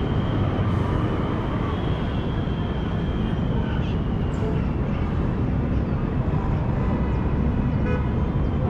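Steady city street traffic: a continuous rumble of car engines and tyres from passing vehicles. A faint high-pitched whine runs through about the first half and then fades.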